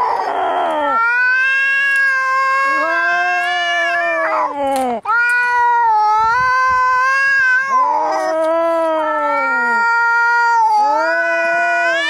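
Domestic cats caterwauling in a fight: long, drawn-out yowls that waver up and down in pitch, one after another, with a harsh hissing burst at the start.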